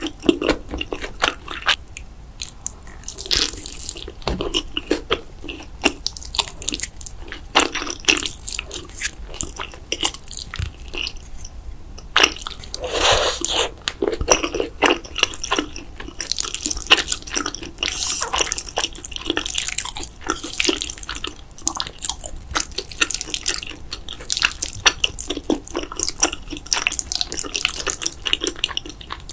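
Close-miked eating sounds of cheesy food, wet chewing and lip-smacking in quick, irregular clicks, with a longer wet mouth sound about thirteen seconds in.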